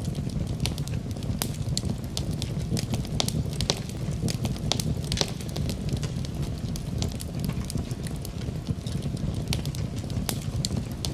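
Fire burning in a fireplace: a steady low rumble with frequent sharp crackles at irregular intervals.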